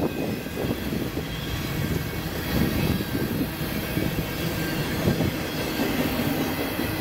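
Double-stack container well cars of a freight train rolling past, their steel wheels running on the rails with a steady rumble.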